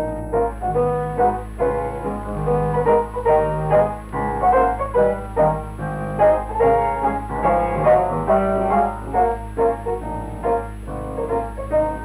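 Piano music with quick, evenly paced notes over a steady low hum.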